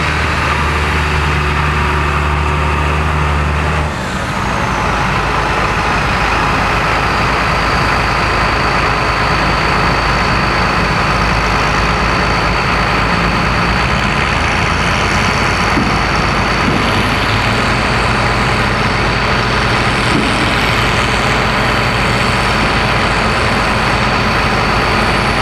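Farmall 806 tractor's six-cylinder engine working hard, dragging a weighted stone boat in a pull. It runs with a steady, even note for about four seconds, dips briefly, then turns rougher and fuller and holds there.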